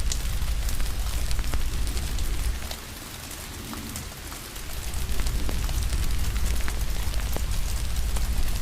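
Steady rain with a crackling fire, sharp pops and snaps scattered through the hiss. A deep low rumble underneath drops away for about two seconds near the middle, then comes back.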